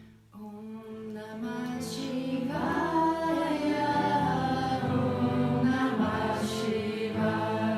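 Group chanting of a mantra in long, held notes over a steady low drone, swelling in during the first two seconds.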